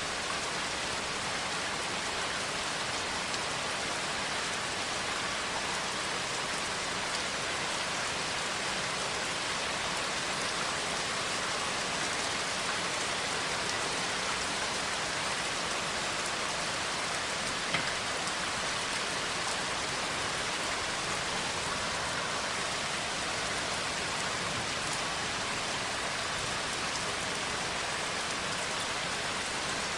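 Steady rain falling, an even unbroken hiss of drops with one small click about halfway through.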